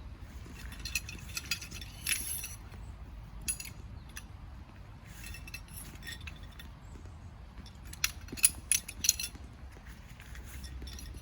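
Scattered light clicks and clinks of small hard objects being handled, in three loose bunches, the sharpest near the end, over a steady low rumble.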